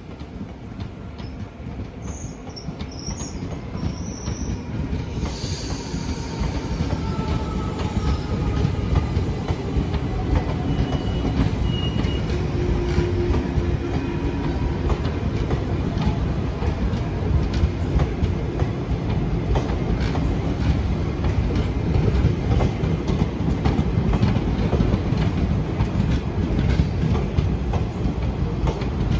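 Passenger coaches of an express train running past at speed: a dense rumble of wheels on rails with a clatter of clicks over the rail joints. It grows louder over the first several seconds, then holds steady, with a few faint high wheel squeals near the middle.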